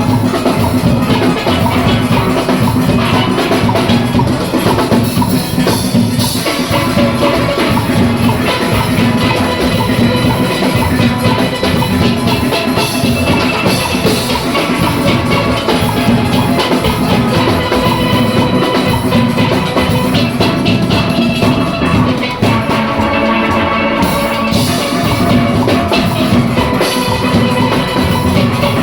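A steel orchestra playing: many steelpans together with drums, a full, continuous band sound on a steady beat.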